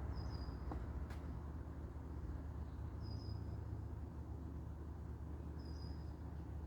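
Outdoor background: a steady low rumble with a short, high chirp repeating three times, about two and a half seconds apart, and a single sharp click about a second in.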